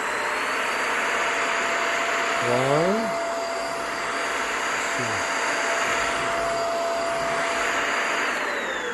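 Cordless stick vacuum with a bristle head running steadily with a high motor whine, which winds down near the end as it is switched off.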